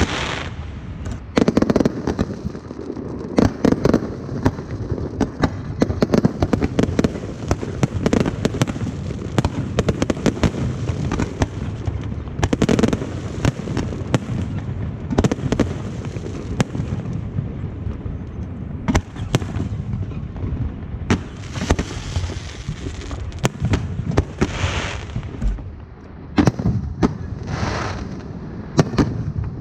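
Aerial fireworks display: a dense, continuous barrage of shell bursts and crackling, with rockets hissing up now and then between the bangs.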